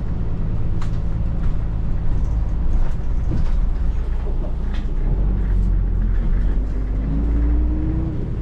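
A motor vehicle's engine running with a steady low rumble, with a slowly rising whine in the last few seconds.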